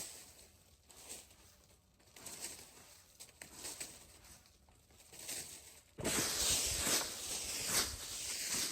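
Scattered soft rustles and light knocks, then about six seconds in a sudden, louder, continuous rustling and crunching, with irregular strokes that fit footsteps or handling in dry forest litter.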